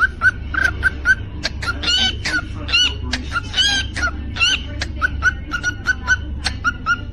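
Cockatiel chirping in quick repeated notes, three or four a second. In the middle these give way to a run of warbling whistles that rise and fall, with sharp clicks scattered through and a steady low hum underneath.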